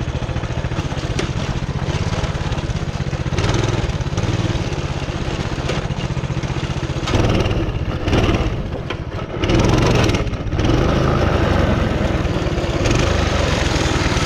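A small engine running steadily, with a couple of louder revs in the middle.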